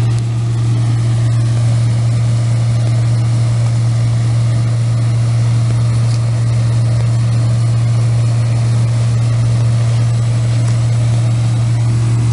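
Steady low mechanical hum, like a running motor or appliance, holding an even pitch and level.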